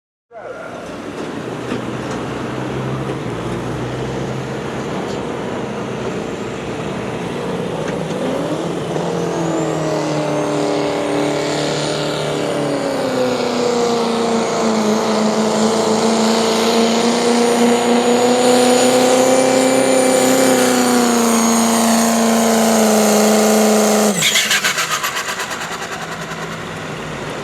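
Pulling truck's engine idling, then revving hard about nine seconds in and held at high revs under load for a full pull down the track, its pitch creeping up as it goes. About twenty-four seconds in the throttle cuts off abruptly and the engine drops back to a low idle.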